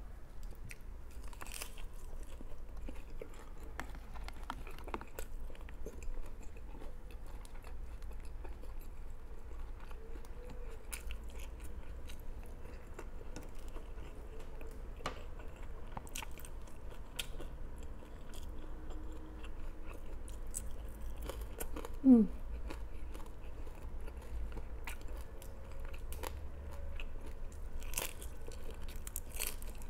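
Close-up chewing and biting of a person eating lettuce-wrapped dried fish and rice by hand, with scattered crunches and mouth clicks over a steady low hum. About 22 s in, a brief falling 'mm' of the voice stands out as the loudest sound.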